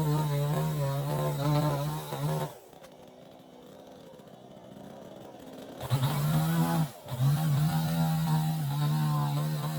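Two-stroke chainsaw running at high revs. It drops away for about three seconds, then revs back up to a steady high note, with a brief dip about a second later.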